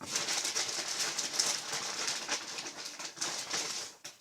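Rustling, crackling handling noise lasting about four seconds, ending just before a dead-silent break.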